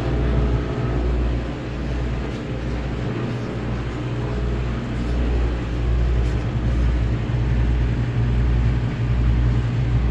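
Heavy machinery running with a steady low rumble and hum that swells and eases about once a second.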